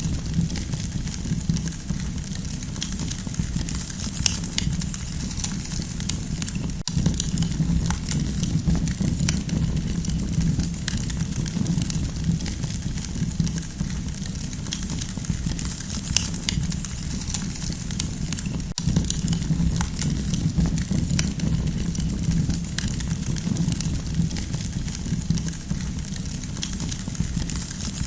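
Campfire burning, a steady low rush dotted with frequent small crackles and pops.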